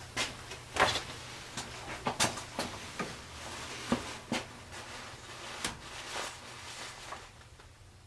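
Irregular knocks and clatters, about a dozen over several seconds, of tools and objects being handled and set down on a workbench, over a low steady hum; they die away near the end.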